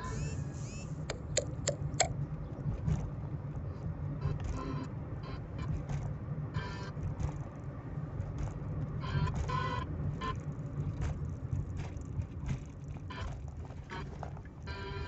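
Car running with a steady low rumble, with scattered light clicks and rattles over it.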